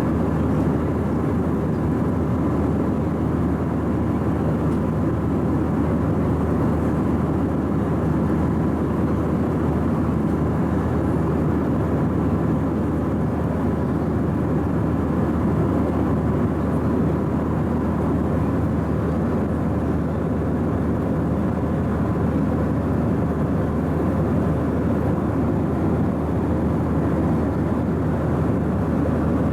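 Steady cabin drone of an Airbus A319 airliner heard from a window seat: a constant low rumble of engines and airflow that does not change.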